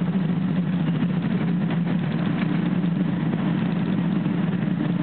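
Steady running noise heard inside a moving electric commuter train: a low, even hum with the rumble of the wheels on the rails and a few faint clicks.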